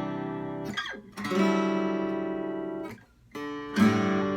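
Acoustic guitar strummed chords, each left to ring for one to two seconds and then damped short before the next. There is a brief slide between the first two chords, and the third chord is struck harder near the end.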